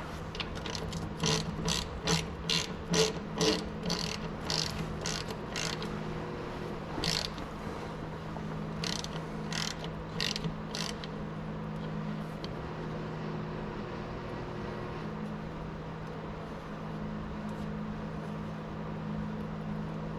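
Hand ratchet wrench clicking in short runs: about a dozen clicks in the first six seconds, then a few more around ten seconds in, over a steady low hum.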